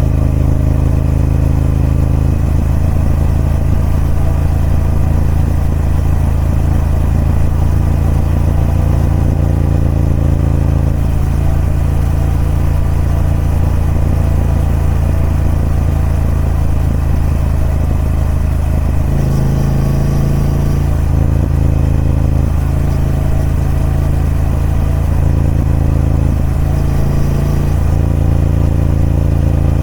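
Triumph Speed Twin 1200's 1200cc parallel-twin engine running through its stock exhaust, a steady engine note that shifts pitch and strength several times.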